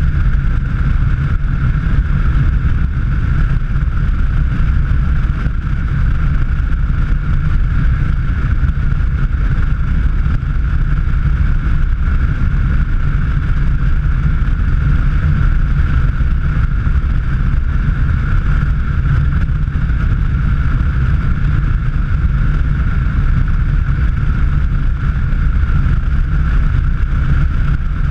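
Vehicle driving at speed: a steady, loud low rumble of engine and road noise with wind, plus a constant hum a little higher up. It holds even throughout.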